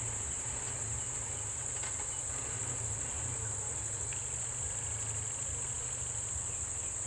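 Steady high-pitched drone of a chorus of insects, crickets or cicadas, over a low, steady rumble.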